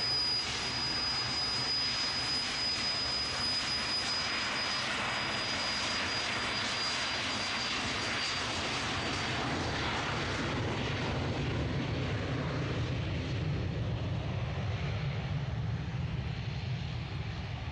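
Jet airliner's engines at takeoff thrust on the takeoff roll: a high steady whine over a broad roar. The whine fades about halfway through while a deep low rumble grows.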